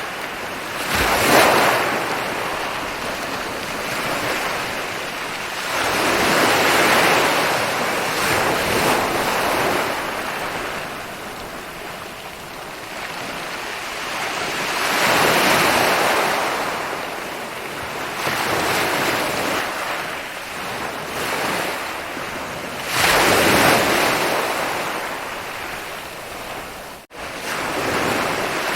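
Ocean waves rolling onto a beach: four waves break, each swelling into a loud surge of surf and fading back into a steady wash, with a brief sharp drop-out near the end.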